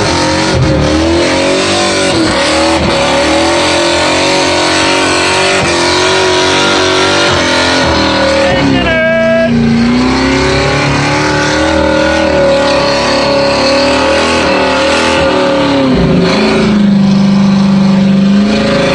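Car engine held at high revs during a burnout, heard from inside the cabin: a loud, steady note that dips and recovers about halfway through, then falls to a lower steady note and climbs again near the end.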